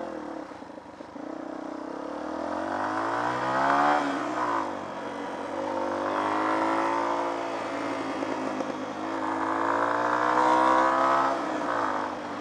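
Small off-road motorcycle engine under way, its revs climbing and falling several times: up to about four seconds in, down, up again and held, then a last rise before dropping back near the end.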